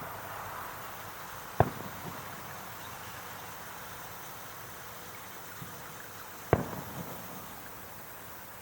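Two fireworks shells bursting: sharp bangs about five seconds apart, each with a short echoing tail, over a steady background hiss.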